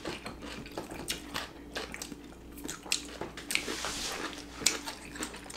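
Close-up wet chewing and lip-smacking of people eating butter-grilled abalone, with many short smacks and clicks and a brief sucking slurp about three and a half seconds in.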